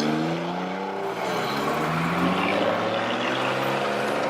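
Car engines driving past: one engine's note falls in pitch in the first second, then another rises briefly and settles into a steady running note.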